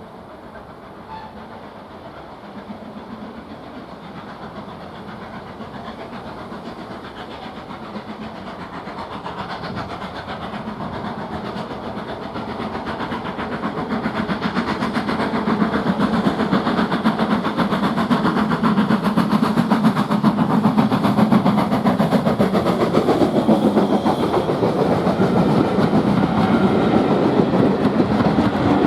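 Steam train approaching, growing steadily louder over about twenty seconds and staying loud near the end, with the clatter of its wheels over the rail joints.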